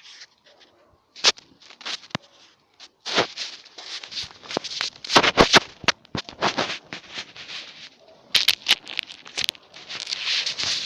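Bonfire of branches crackling, with many sharp, irregular snaps and pops. A steady rushing hiss comes in near the end.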